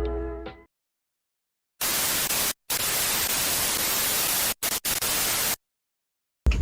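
Background music fading out, then dead silence, then about four seconds of TV-static white noise that switches on and off abruptly in several bursts, as a static sound effect between clips.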